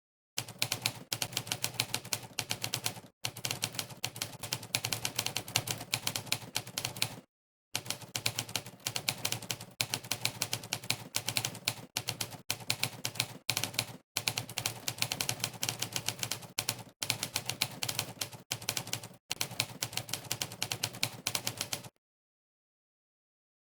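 Monkeytype's typewriter keystroke sound effect: rapid typewriter key clacks, one per keypress, several a second, in runs broken by a few short pauses. It starts about half a second in and stops about two seconds before the end, leaving dead silence.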